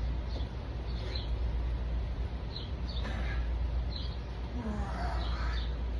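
Birds chirping in short, high calls every half second to a second, over a steady low rumble.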